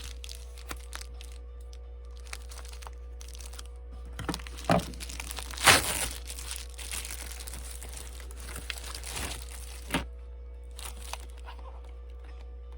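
Package being unwrapped by hand: plastic or paper packaging crinkling and tearing, with a loud crackle a little before the middle, a stretch of rustling after it, and another sharp crack near the end.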